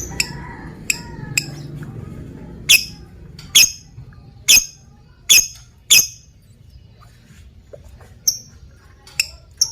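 Lovebird giving short, sharp, high-pitched single calls, about a dozen at irregular intervals, the loudest in a run between about three and six seconds in, with fainter softer chatter in the first two seconds.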